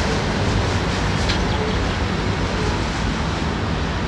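A train rumbling across a steel truss rail bridge as its last locomotive passes out of sight; the steady rumble eases a little near the end.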